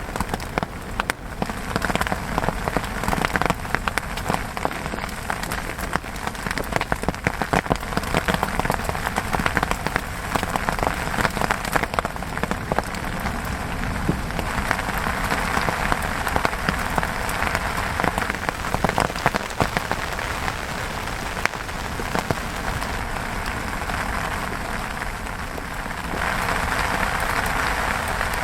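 Steady rain falling, a dense patter of individual drop hits that evens out into a smoother rushing hiss about halfway through.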